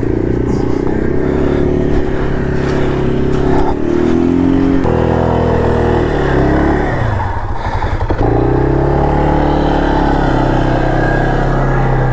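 ATV engine revving, its pitch rising and falling repeatedly, with sudden changes in the sound about five and eight seconds in.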